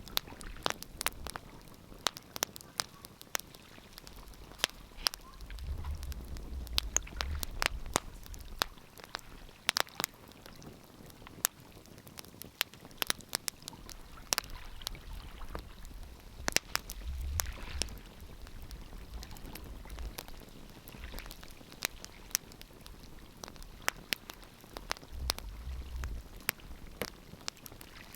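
Wood fire crackling, with frequent sharp pops and snaps at an irregular pace. Low rumbles swell up three times.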